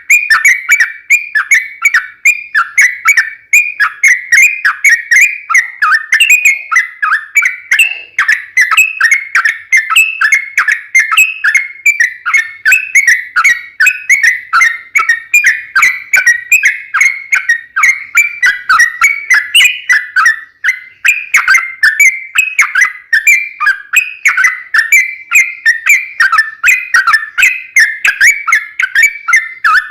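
Sooty-headed bulbul (trucukan) singing a long, unbroken run of quick whistled notes, several a second, with no pauses: the long 'ropel' song used as a lure to make other bulbuls answer.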